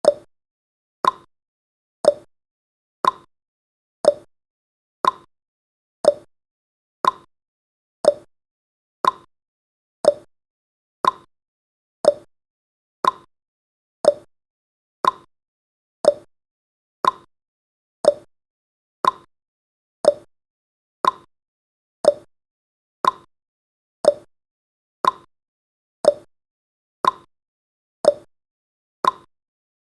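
Countdown timer's clock-tick sound effect, one short, sharp tick every second, evenly spaced.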